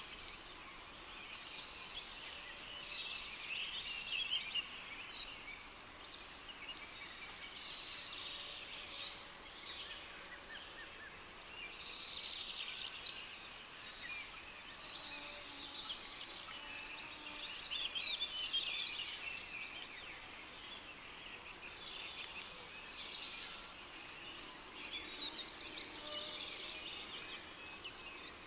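A cricket chirping steadily at a high pitch, about three chirps a second, with a brief pause about ten seconds in. Birds give scattered calls and trills alongside.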